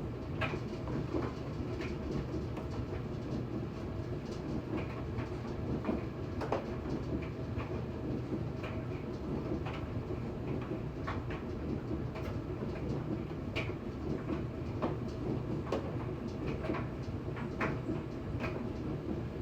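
LG gas dryer running with its drum turning: a steady low rumble with irregular clicks and knocks as the drum tumbles. The gas burner has not yet lit, so the dryer is tumbling without heat.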